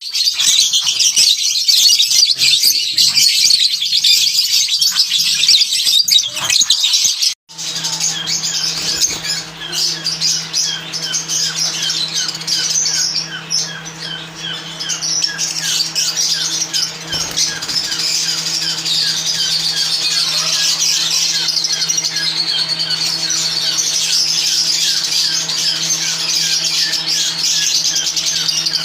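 A colony of lovebirds chattering and squawking together in a dense, continuous high-pitched din. About seven seconds in the sound breaks off for an instant, and from then on a steady low hum runs beneath the chatter.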